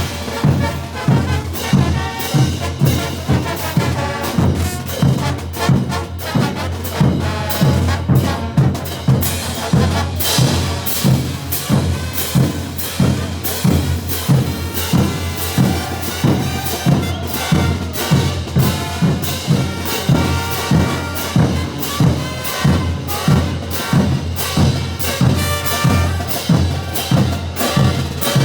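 Bolivian brass band playing: trumpets and trombones over drums, with a steady, even beat.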